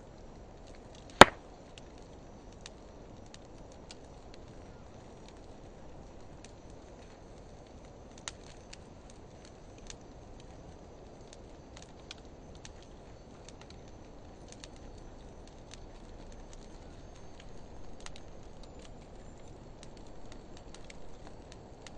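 Wood fire of driftwood and dry hardwood logs burning: a low steady rush of flame with one sharp, loud pop about a second in and scattered faint crackles after it.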